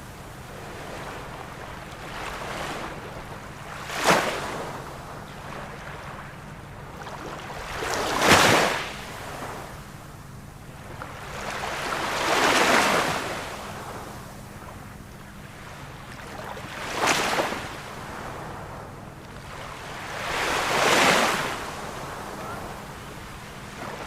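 Ocean waves breaking on a shore: a steady wash of surf with a wave crashing about every four seconds, some sharp and brief, others swelling and falling more slowly.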